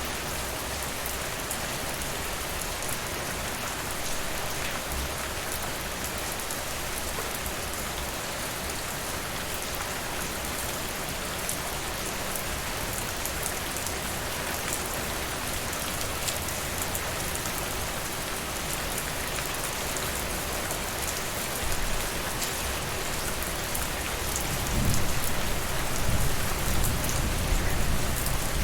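Steady rain falling, mixed with the faint crackle of a fireplace. A low rumble swells in the last few seconds.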